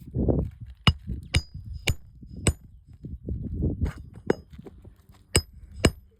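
Sharp metallic strikes of a hand tool working nails loose from asphalt roof shingles, about seven strikes with a brief ring after each, irregularly spaced. Scraping and rustling of the shingles is heard between the strikes.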